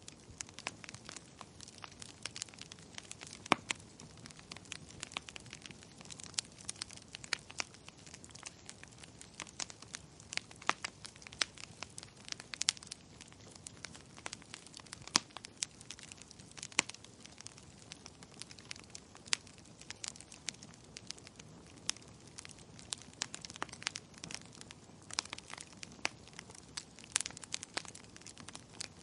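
Wood fire crackling in a fireplace: irregular sharp pops and snaps, some much louder than others, over a faint steady hiss.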